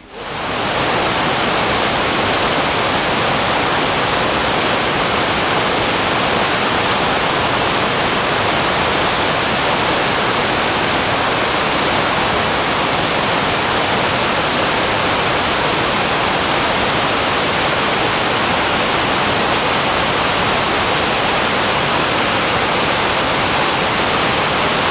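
Water rushing over rocks, a steady loud rush that fades in over the first half second and holds even throughout.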